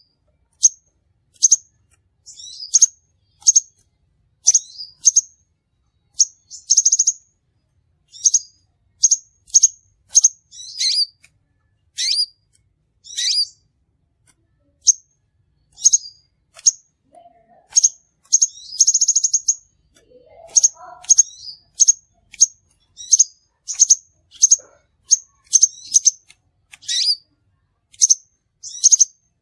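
Crimson sunbird calls: short, sharp, high chirps repeated about once or twice a second, with a few longer buzzy trills and downward-sliding notes mixed in. This is a lure call recording (suara pikat) used to attract sunbirds.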